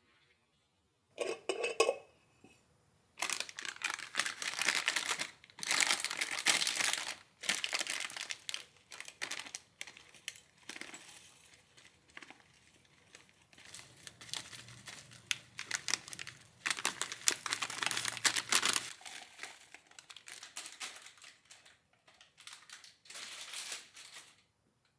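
Irregular crinkling and rustling in bursts, separated by short pauses.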